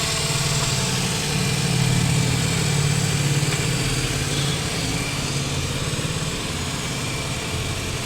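Renault Kwid's three-cylinder petrol engine idling steadily, freshly started after a cylinder-head overhaul and new piston rings that were done to cure a misfire.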